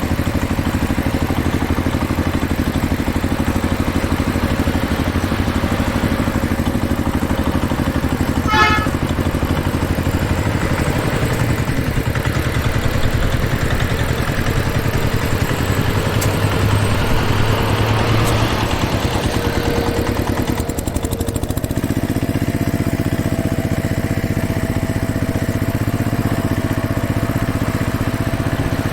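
An engine running steadily. About three-quarters of the way through, its sound shifts and a steady higher tone comes in.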